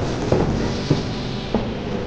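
Aerial fireworks bursting: three sharp bangs over a continuous rumble and crackle of shells going off.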